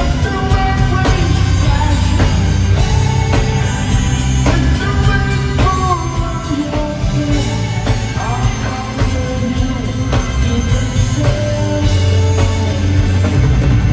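Rock band playing live with a singing voice over heavy bass and drums.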